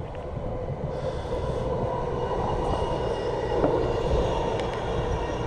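Steady rumbling noise of a passing vehicle, swelling up just before and holding throughout.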